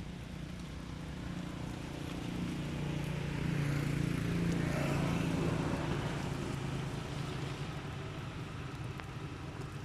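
A motor vehicle's engine hum building to a peak about halfway through and then fading, as if passing by.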